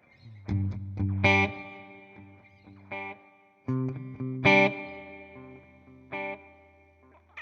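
Electric guitar, a Fender Jazzmaster Modern Player with humbuckers, playing through a Nux Time Core delay pedal into a simulated Fender '65 Twin Reverb amp. About six chords are struck, and each rings out and fades.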